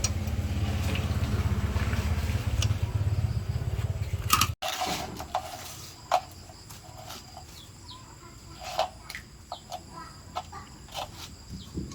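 A motor running with a steady low rumble, which cuts off abruptly about four and a half seconds in. After the cut there are quieter outdoor sounds with scattered short clicks and brief chirps.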